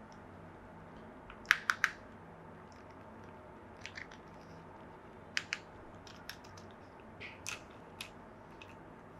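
Small sharp clicks and taps of plastic model-train parts or packaging being handled: three quick clicks about a second and a half in, a pair past the middle, and scattered lighter ticks, over a faint steady hiss.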